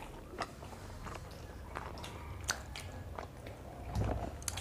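Close-miked eating sounds: chewing and wet lip smacks of mouthfuls of paratha and chicken curry, with scattered sharp mouth clicks and a louder muffled mouthful about four seconds in.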